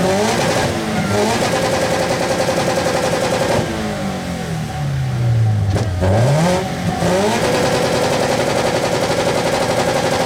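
Subaru BRZ's flat-four boxer engine revved hard for a decibel meter: it rises and is held high for a couple of seconds, falls away about four seconds in, blips back up near six seconds, then is held high again.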